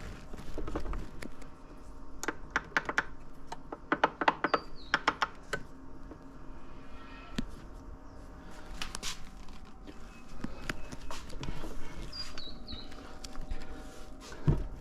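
Scattered sharp clicks and knocks of metal parts as a transmission case half is worked down onto a manual gearbox that won't seat, with a couple of brief high squeaks.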